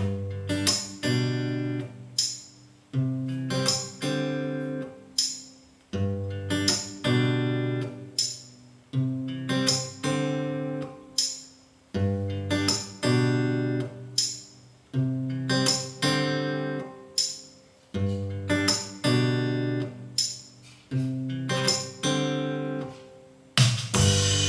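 Acoustic guitar music played back through Yamaha NX-E400 speakers driven by a Yamaha RX-V767 receiver, recorded on a mobile phone. Strummed chords fall in a pattern that repeats about every three seconds.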